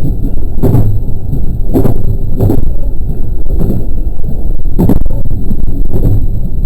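JR West 223 series electric train running along the line: a heavy low rumble with a clack about once a second as the wheels cross rail joints.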